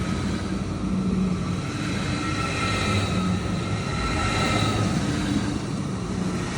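ICE 4 high-speed electric train departing: a steady rumble with several steady whining tones that swell and fade.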